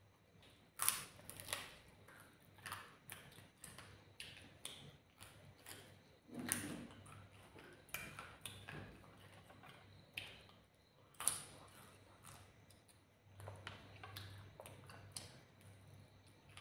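A person chewing chicken close to the microphone, with wet mouth clicks and lip smacks coming at irregular intervals.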